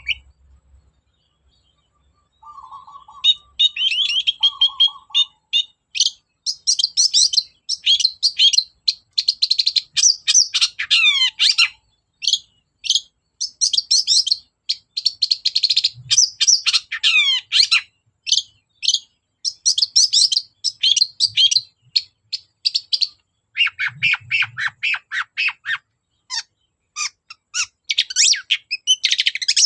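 Long-tailed shrike (cendet) singing vigorously: a fast, chattering run of short, high notes with quick falling sweeps here and there, starting after a brief pause.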